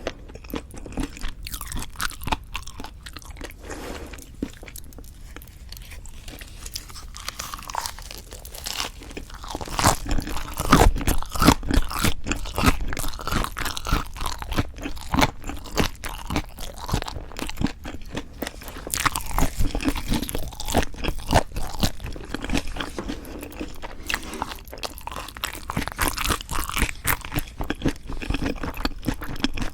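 Close-miked chewing and crunching of lettuce-wrapped mouthfuls of raw fish bibimbap and boneless chicken feet, with many quick wet clicks. It is sparser and quieter at first and gets denser and louder from about ten seconds in.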